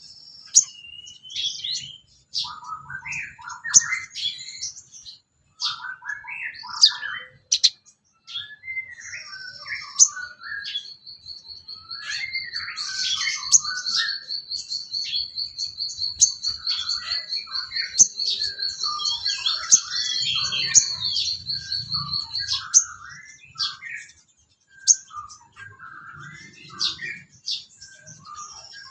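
Sogon bird singing a varied run of chirps, whistles and warbled phrases, with one long pulsed trill held from about ten seconds in until a little past twenty seconds.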